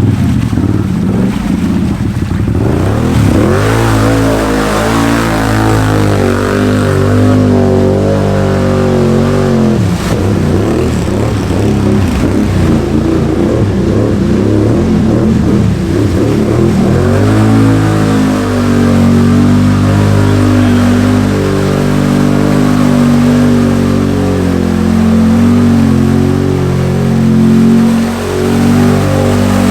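Can-Am Outlander ATV's V-twin engine revving hard under load through mud. The revs climb about three seconds in, drop around ten seconds, then climb again around seventeen seconds and stay high, wavering as the machine works through.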